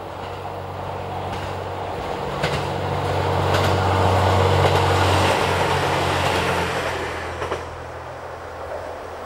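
JR Hokkaido H100 'DECMO' two-car diesel-electric railcar passing close by: its engine hum and wheel noise build to a peak about halfway through, then fade as it moves off. A few sharp clacks come through as its wheels cross rail joints.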